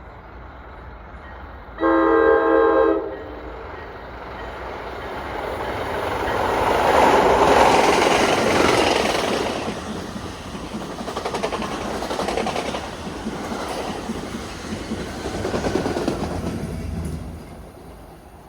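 New Jersey Transit commuter train sounding one short chord-horn blast of about a second, then running through the station. Its rumble and wheel clatter build to their loudest about seven seconds in and fade near the end.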